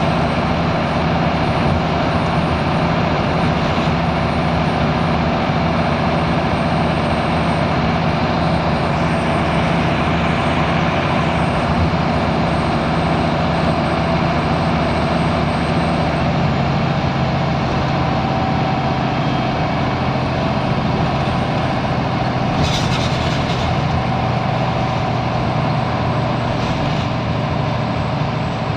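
Scania L94UB Wright Solar single-decker bus's five-cylinder diesel engine running under way, a steady drone whose note shifts lower about halfway through. A brief hiss about three-quarters of the way through.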